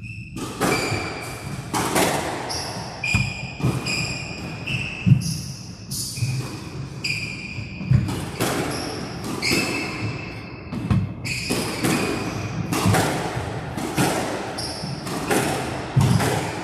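Squash rally: the ball smacking off racquets and the court walls about once a second, with players' shoes squeaking sharply on the court floor between shots.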